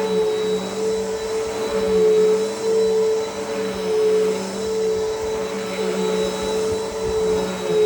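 Bissell Power Force Helix upright vacuum cleaner running on carpet, a steady motor hum with a high whine, its pitch and level dipping slightly now and then as it is pushed back and forth.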